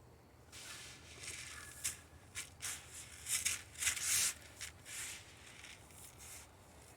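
Dry mix of chicken scratch and black oil sunflower seeds rustling and hissing in irregular bursts as it is stirred and handled, with the loudest bursts about three to four seconds in.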